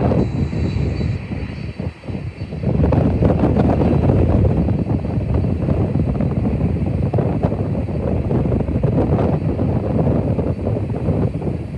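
Boeing 767-300 freighter's twin jet engines roaring at takeoff power, a loud, dense rumble that dips briefly about two seconds in and then builds back to full strength.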